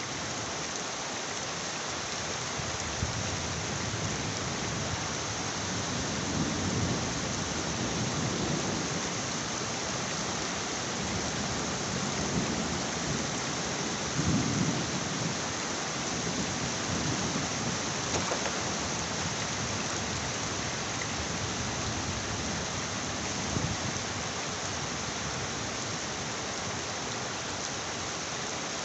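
Heavy rain falling steadily, with low rumbles of rolling thunder that swell and fade several times, mostly in the first two-thirds.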